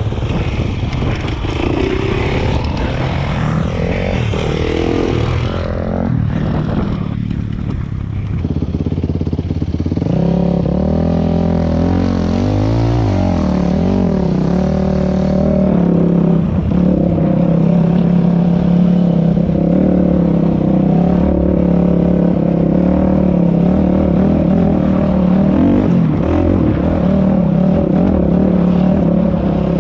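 Dirt bike engine running under way, rough and uneven at first; from about ten seconds in it settles to a steady pitch, with a brief rise and fall in revs a couple of seconds later.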